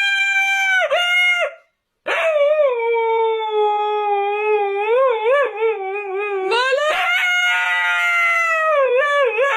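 Husky howling back in long, wavering, drawn-out calls, the 'talking back' vocalising of an argumentative husky, with a brief silent break just under two seconds in.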